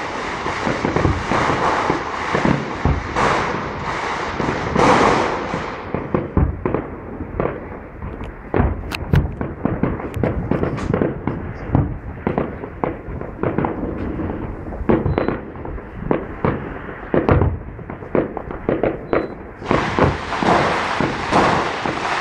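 Fireworks display: aerial shells bursting in quick succession, a dense run of bangs over continuous crackling.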